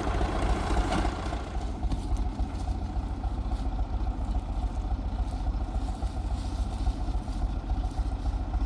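A vehicle engine running steadily with a low rumble, easing slightly after the first second or two.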